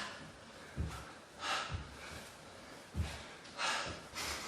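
A man breathing hard during burpees, forcing out sharp gasping puffs every second or so, with a few dull thumps of his body and hands meeting the floor.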